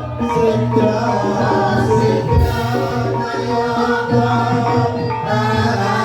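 Banyumasan gamelan music accompanying the ebeg dance: mallet-struck keyed instruments and drum playing continuously, with a singing voice over them.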